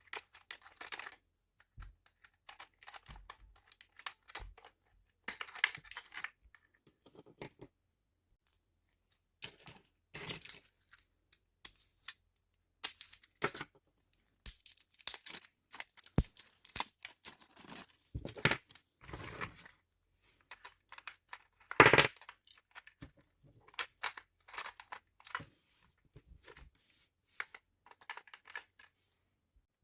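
Hands handling toy packaging and plastic parts: irregular crinkling, tearing and clicking in short bursts, with one louder burst about three quarters of the way through.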